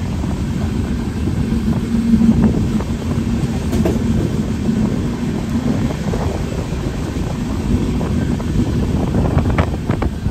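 Passenger express train running at speed, heard from aboard the coach: a steady rumble of wheels on the track, with a few sharp clicks near the end.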